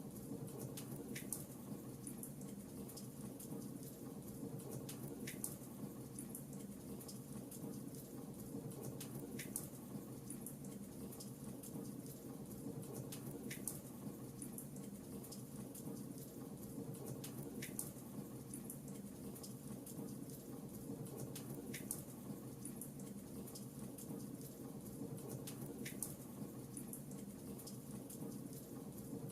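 Fireplace crackling: a steady low rush of the fire with fine crackles and a sharp pop about every four seconds, evenly spaced.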